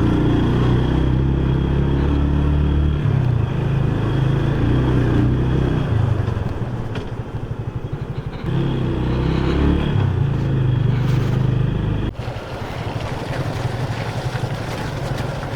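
Motorcycle engine running under way with wind and road noise. The engine note shifts pitch several times, and the sound changes abruptly about twelve seconds in.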